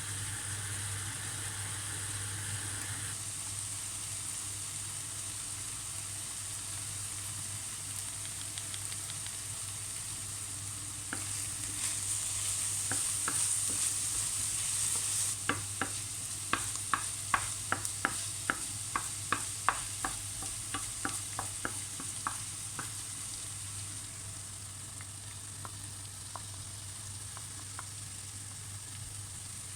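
Food sizzling in oil in a frying pan, the sizzle swelling for a few seconds about a third of the way in. Then a utensil clicks against the pan about twice a second for several seconds as the food is stirred.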